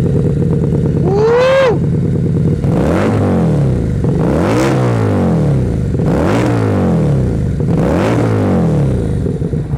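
CMC Buccaneer 250i fuel-injected motorcycle idling and being blipped on the throttle: a short sharp rev about a second in, then four rev-ups that rise and fall back to idle about every one and a half to two seconds, through its new exhaust manifold.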